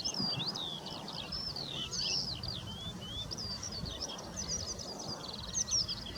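Wild songbirds singing and calling: a continuous run of varied high chirps, whistles and quick slurred notes, with a short rattling trill about five and a half seconds in.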